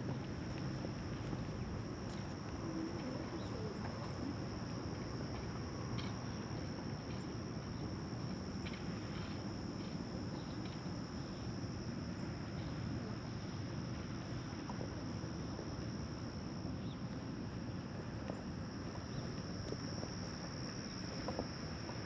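Summer insects singing in one unbroken high-pitched drone, over a steady low outdoor rumble, with a few faint short chirps.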